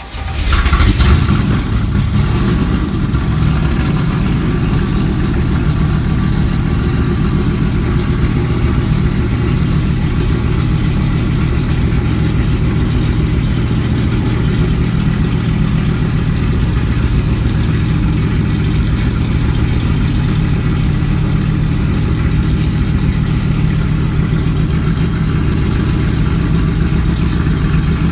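Kirkham Cobra's 427 Ford side-oiler V8 cold-starting: it fires straight away on the turn of the key, surges to a peak about a second in, then settles into a steady idle on a cold engine.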